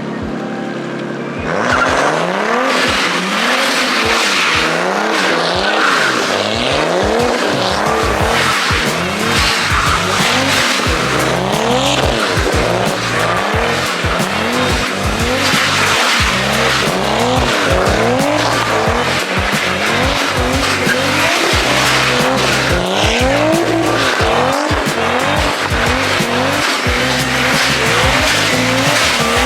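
A car drifting: the engine revs up again and again while the tyres squeal and skid, with music with a steady beat playing over it. Both get suddenly louder about a second and a half in.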